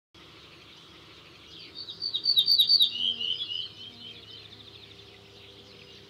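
Songbird singing a quick series of high, rapidly repeated chirps, loudest a couple of seconds in and then trailing off, over a faint outdoor background.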